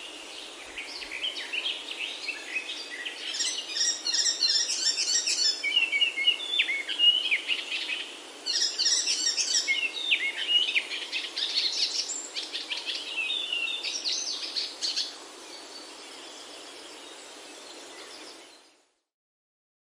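Birdsong: many overlapping chirps and quick trills over a steady background hiss, busiest in the middle and thinning out before the sound stops abruptly near the end.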